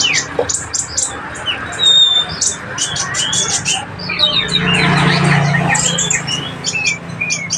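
A small songbird, the konin of Indonesian bird keepers, singing a quick run of high chirps, twitters and short whistled slurs. A low hum swells in the background around the middle.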